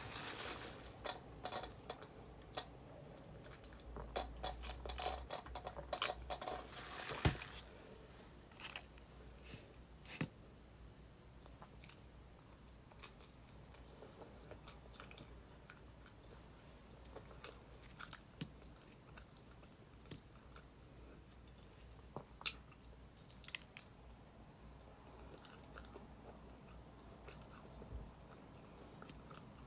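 Close-up mukbang eating sounds: a person biting and chewing crunchy fried fast food, with crackly crunches and mouth clicks. Busy for the first several seconds, then slower, scattered chewing.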